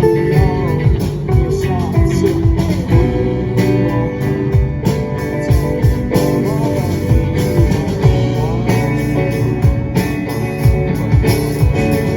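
Live rock band playing: guitars over bass with a steady drum-kit beat.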